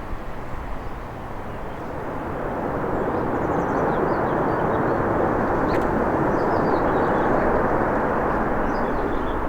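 Jet engine noise from a Boeing 737-800 after landing: a rushing roar that swells over the first few seconds and then holds steady.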